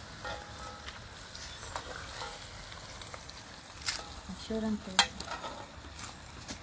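Geera ribs sizzling in an aluminium pot over a charcoal fire while a metal spoon stirs them, with two sharp clinks of the spoon against the pot about four and five seconds in.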